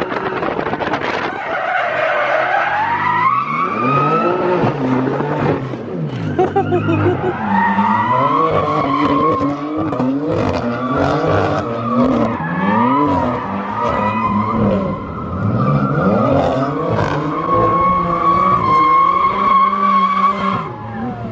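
A car doing donuts: tyres squealing and skidding with a wavering pitch while the engine revs rise and fall over and over.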